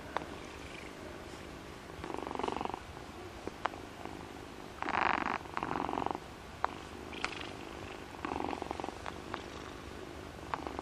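Domestic cat purring close up. The purr swells into louder stretches every couple of seconds, in step with its breaths, with quieter purring between and a few faint sharp clicks.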